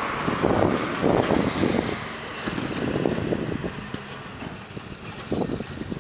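Faint, short, high-pitched killdeer calls repeating every second or so, over irregular low rumbling and rustling.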